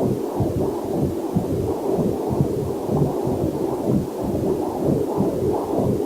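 Heartbeat picked up by a fetal Doppler heart monitor: a quick, even train of pulses with a faint waterfall mixed in underneath.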